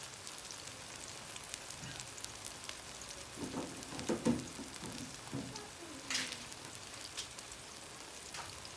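Plantain slices frying in hot oil in a pan, a steady crackling sizzle. A few louder knocks sound around the middle and a sharp crack about six seconds in.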